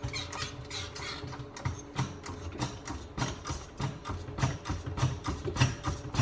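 Car jack being worked to lift a car: a steady run of mechanical clicks and clunks, about two a second, growing louder near the end.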